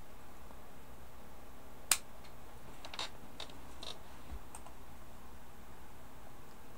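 Clicks and taps on a computer keyboard and mouse: one sharp click about two seconds in, then a quick run of lighter clicks, over a faint steady hiss.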